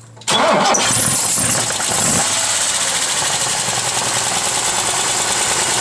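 Opel six-cylinder engine on triple Weber IDF 44 carburettors, with a header and a 304-degree camshaft, starting up a moment in. It catches, its speed wavers for a second or two, then it settles into steady running. This is a first start on the carburettors, which are not yet adjusted.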